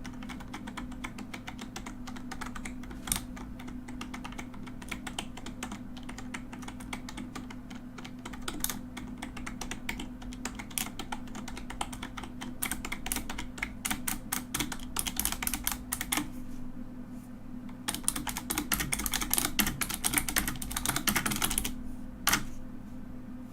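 Mechanical keyboard being typed on: a dense, irregular stream of clicking keystrokes. After a brief lull in the second half comes a faster, louder run of typing. A steady low hum sits underneath.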